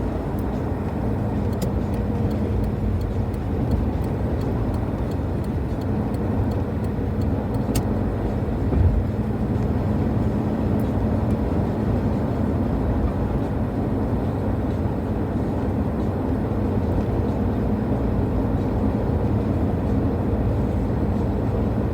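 Steady road noise inside a moving car: low tyre rumble and engine hum. There is a single sharp click about eight seconds in and a brief bump a second later.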